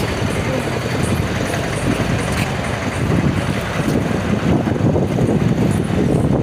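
Street traffic noise: motor vehicles running and passing, a steady, loud rumble and hiss.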